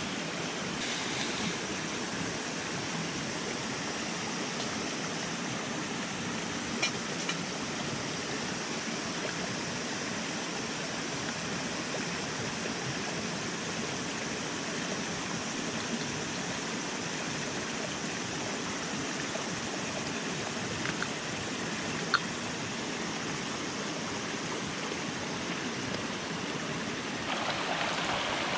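Steady rushing noise like flowing water, with a few faint sharp clicks, two near 7 seconds and two about 21 to 22 seconds in.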